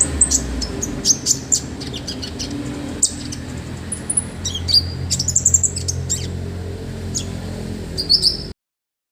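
A konin songbird singing energetically: rapid sharp high chirps and short whistled trills, with a fast run of repeated notes near the middle, over a low steady background hum. The sound cuts off abruptly near the end.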